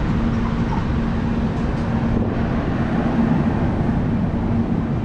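Passenger train running on the track: a steady, loud rolling rumble with a constant low hum underneath.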